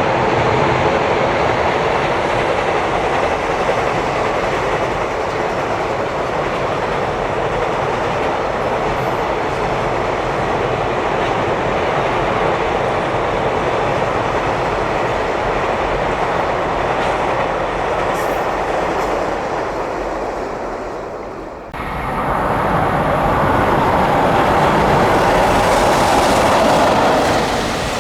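Freight train hauled by an EF65 electric locomotive running past at speed, its wheels clattering over the rail joints. About three-quarters of the way through, the sound dips and changes abruptly, then builds again.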